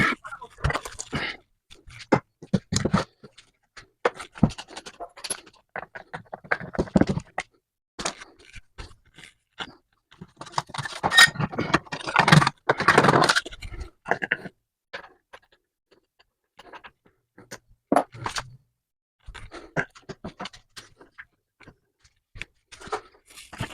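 Intermittent scrapes and clinks of metal tools and parts being handled and worked, with a busier, louder stretch about halfway through.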